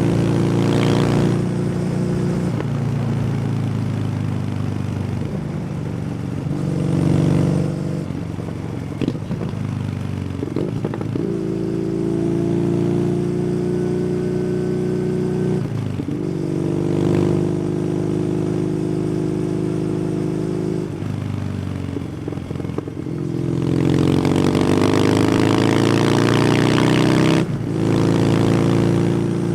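Kawasaki W800's air-cooled parallel-twin engine through an SC Project exhaust, heard on the move. Its pitch holds steady and then shifts several times with throttle and gear changes, climbing under acceleration near the end before dropping at a shift, with wind noise over it.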